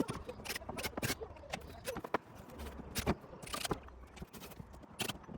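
Irregular light knocks, clicks and rattles of wooden boards and metal hardware as a wooden swing-set playhouse is taken apart.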